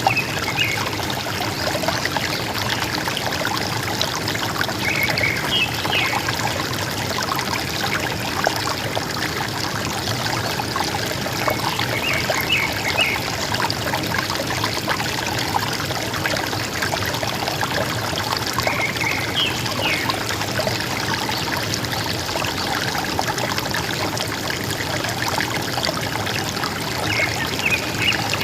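River water flowing steadily with a gurgling rush, and a forest bird giving a short, high chirping phrase about five times, roughly every seven seconds.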